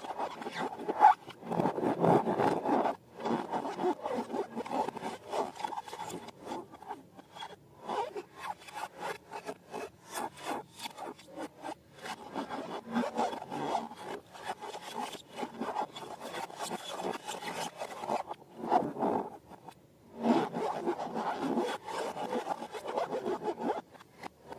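Slime being worked by hand: sticky crackling and rubbing strokes with many small clicks, in long runs broken by short pauses about three seconds in, near the middle and about four-fifths of the way through.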